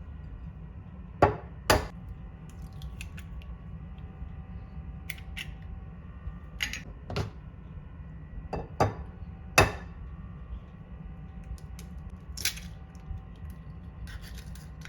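Kitchen utensils clicking and knocking against dishes or a work surface, several sharp separate strikes at irregular intervals over a steady low hum.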